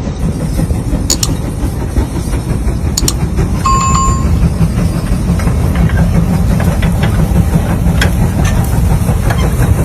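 Heavy tractor engine running with a steady low rumble and scattered clicks. A short high-pitched tone sounds once about four seconds in.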